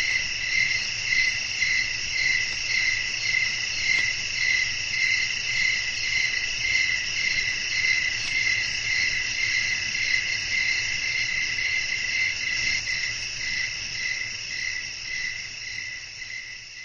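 Night chorus of crickets chirping, a steady high trilling with one voice pulsing a couple of times a second. The sound fades out near the end.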